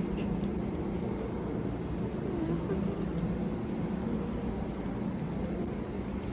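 Amtrak Northeast Regional train standing at the station platform, giving off a steady low hum with a few held low tones.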